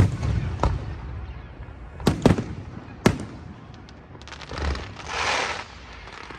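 Aerial firework shells bursting overhead: five sharp bangs within the first three seconds. Near the end comes a quick patter of small cracks, then a rushing crackle.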